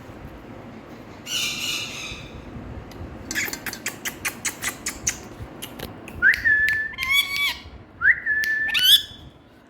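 Indian ringneck parakeet calling: a short harsh squawk, then a quick run of sharp clicking chirps, then two whistled calls that rise quickly and hold one pitch for about a second each.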